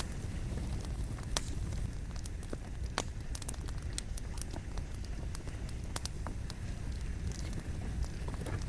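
Wood campfire burning, logs crackling and popping in scattered sharp snaps over a steady low rumble of flame.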